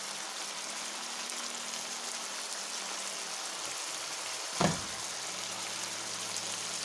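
Beef with sliced peppers and onions sizzling steadily as it fries in a pan, with one sharp knock about four and a half seconds in.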